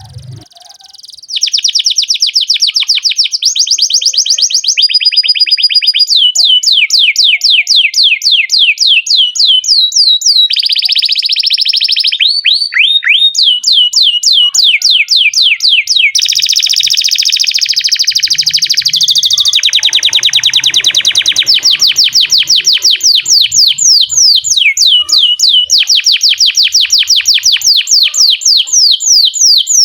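Domestic canary singing a long, unbroken song of fast rolling trills, each roll a rapid run of repeated notes, changing to a new roll every few seconds; it starts about a second and a half in.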